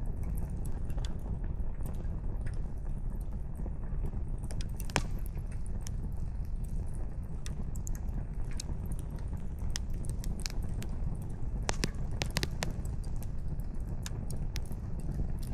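Wood fire crackling: irregular sharp pops and snaps from burning firewood, a few in quick succession about twelve seconds in, over a steady low rumble.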